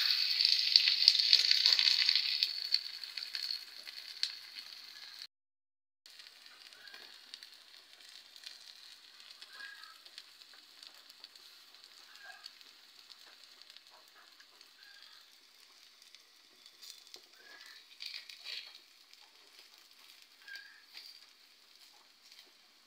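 Batter of a spiced eggplant pitha frying in oil in an iron pan: a loud sizzle at the start that dies down over a few seconds to a faint steady sizzle, with a brief dropout about five seconds in.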